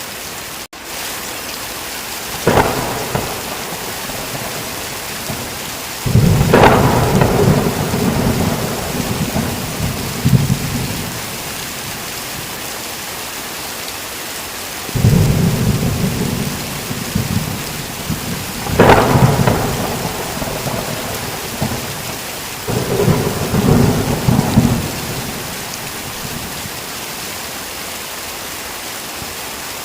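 Steady heavy rain with thunder: about five claps, some a sharp crack and others a deep rolling rumble lasting several seconds, spread through the rain.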